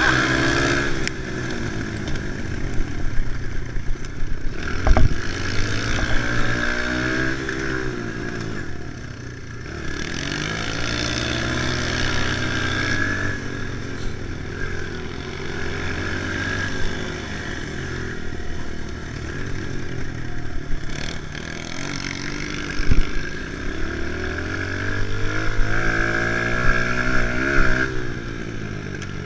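Kawasaki KLX110 pit bike's small single-cylinder four-stroke engine being ridden, its revs rising and falling again and again, with a couple of sharp knocks along the way.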